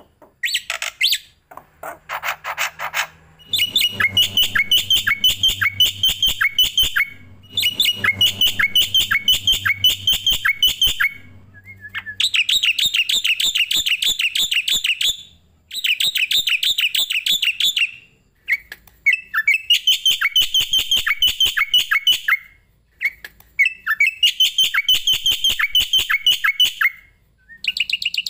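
A songbird giving rapid runs of sharp, evenly repeated chirps, several a second, in bouts of a few seconds broken by short pauses.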